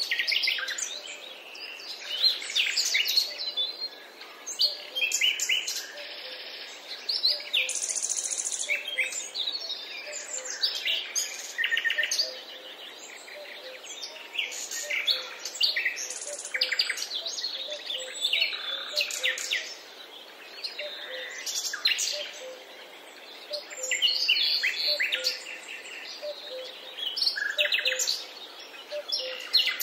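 Mixed woodland birdsong: several songbirds chirping and singing in quick, overlapping phrases, with a faint low note repeating steadily underneath.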